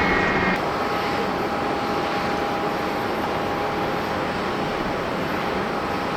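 Jet airliner engines running, a steady loud rush with a faint steady whine. About half a second in, a higher whine cuts off and the level drops a little.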